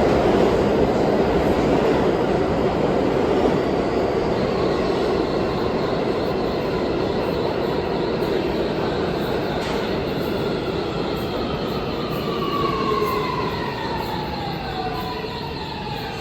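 New York City subway train running and slowing down. A steady rumble is joined by a whine that falls in pitch as the train brakes.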